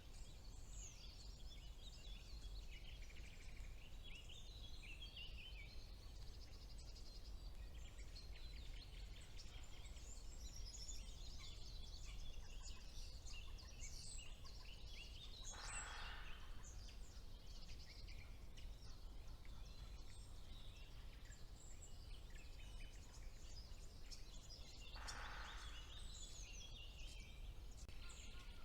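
Several songbirds singing at once in a spring woodland: dense, high-pitched song with many overlapping phrases. Two brief, harsher calls stand out, one about halfway through and one near the end, over a faint steady low rumble.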